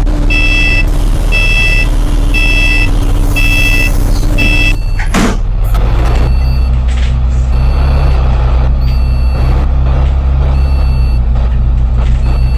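Bus warning beeps sounding five times, about one a second, typical of the door-closing warning. About five seconds in there is a short hiss of air as the doors close, then the engine drone strengthens as the bus pulls away.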